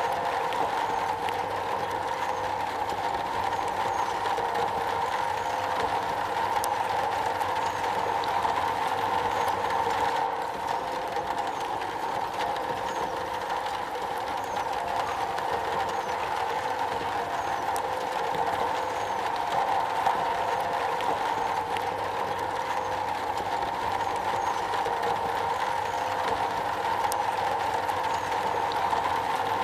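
Steady rain drumming on a metal roof, a dense continuous patter with no let-up.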